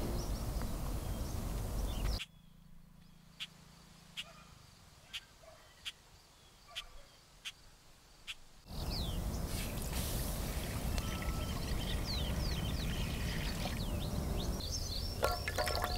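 Small birds chirping over steady outdoor ambience. About two seconds in the background drops away, leaving sharp single chirps for several seconds, and then the ambience returns with gliding calls. Near the end water is poured from a steel bowl into a metal pan.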